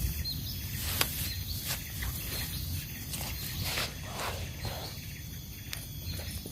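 Rain falling, with irregular sharp hits of heavy drops and a low steady rumble underneath. Short high chirps sound repeatedly in the background.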